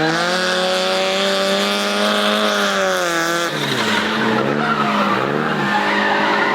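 Car doing a burnout: the engine is held at high revs with the tyres squealing. The engine note stays steady for about three and a half seconds, then drops and climbs again several times as the throttle is worked.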